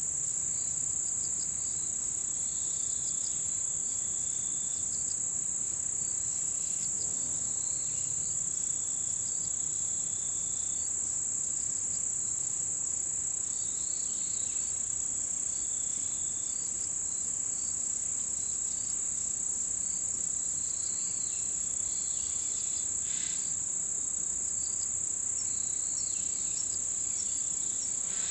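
Chorus of autumn insects in a mountain forest: a continuous high-pitched shrill drone, with shorter chirping phrases from other insects coming and going over it.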